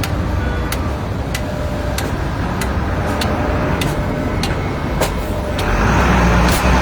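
A motor vehicle engine running with a steady low rumble, with a regular ticking about twice a second. A louder rush of traffic noise comes in near the end.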